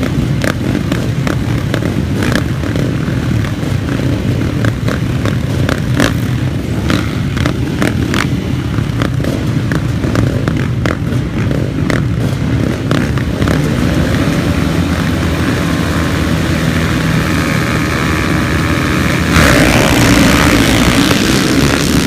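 Motocross motorcycle engines running, with scattered knocks and clatter through the first half. A pitched engine tone comes through in the second half, and the sound gets louder about two seconds before the end.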